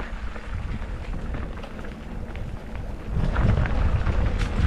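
Wind buffeting the microphone, with a low rumble and scattered crackles from tyres rolling over a rough dirt trail; it grows louder about three seconds in.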